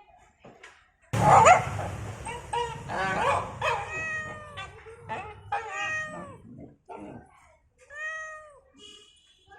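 A dog whining and yowling in a series of drawn-out, meow-like calls, each rising then falling in pitch. The loudest and harshest call comes about a second in.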